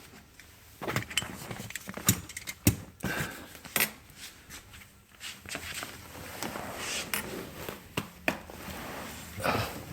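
Irregular sharp clicks and knocks with rustling between them: handling noises, with no engine running.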